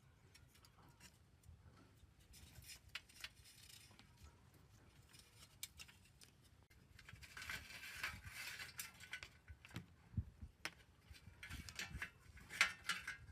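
Faint handling noise of restoration work on an old amplifier: scattered light clicks and taps, with a stretch of scraping or rubbing about seven to nine seconds in and a quick run of clicks near the end.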